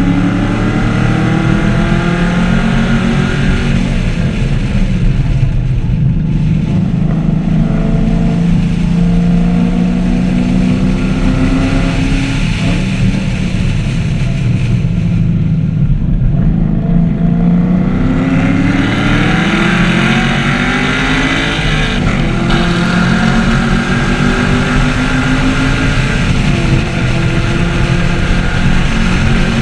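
Chevrolet Camaro SS 1LE's 6.2-litre V8 running hard on track, its pitch climbing under acceleration and falling off twice as the car slows, with a rush of wind and road noise growing over the second half.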